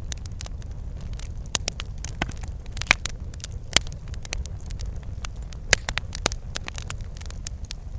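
Wood fire crackling in a fireplace: irregular sharp pops and snaps over a steady low rumble of burning, with a few louder pops along the way.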